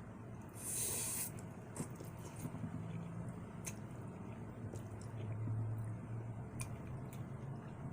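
A person eating hot spicy ramen noodles: a short airy rush about a second in, then soft wet chewing with scattered mouth clicks.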